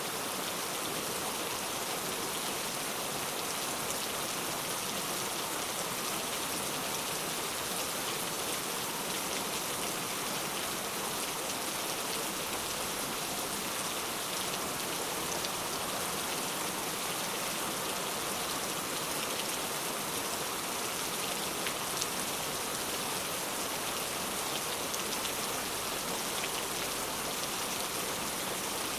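Heavy rain falling steadily, an even hiss of rain with scattered individual drops.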